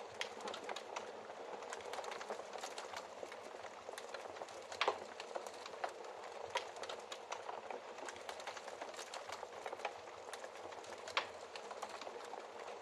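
Wood fire crackling in a fireplace: a steady soft hiss with frequent small sharp pops and a few louder snaps, about five, six and a half and eleven seconds in.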